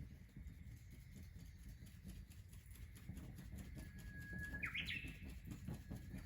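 Wood fire crackling faintly, with a thin high whistle that holds for about a second and then jumps higher in quick steps, like steam escaping from burning wood.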